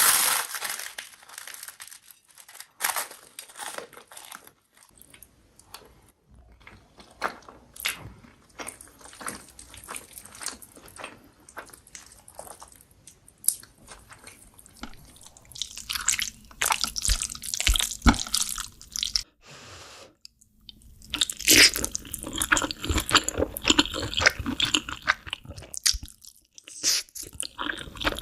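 Close-miked mouth sounds of eating: chewing and biting with many crisp, crunchy clicks. They are sparse for the first half, then busier and louder from about halfway in, with a short pause.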